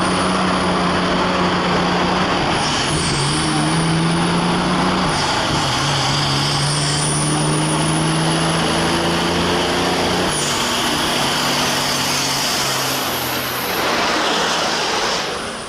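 Large vehicle engine running hard under load. Its pitch drops at each of three gear changes and climbs slowly between them.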